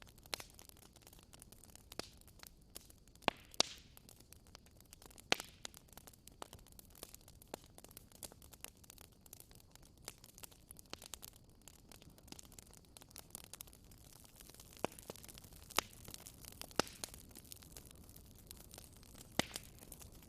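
Campfire crackling: irregular sharp pops and snaps, a few of them louder, over a faint steady hiss.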